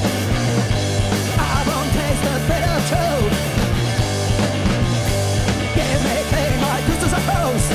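Live rock band playing loud punk-style rock, with a heavy steady bass line under gliding lead sounds.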